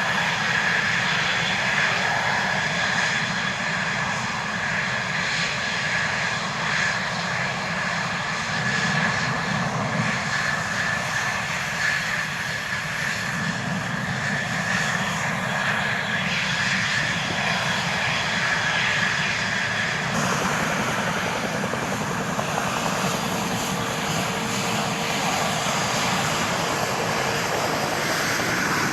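F-16 fighter jet engine running, a steady rushing noise with a high whine over it. The sound changes abruptly about twenty seconds in, and a lower steady tone comes in toward the end.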